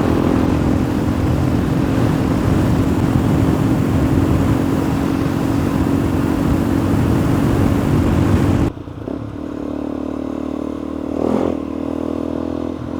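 Suzuki DR-Z400E single-cylinder four-stroke engine running at a steady cruise under heavy wind noise on the microphone. About two-thirds of the way through, the wind noise drops away abruptly and the engine runs on quieter and lower, with a brief rise in revs near the end.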